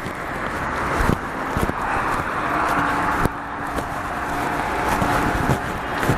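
Street traffic noise: a steady rush of passing vehicles with scattered knocks, and a faint steady hum joining about halfway through.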